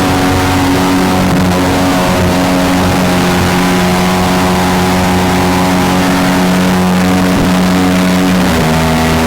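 Mini jet boat's engine running steadily at speed, its pitch stepping a little lower near the end.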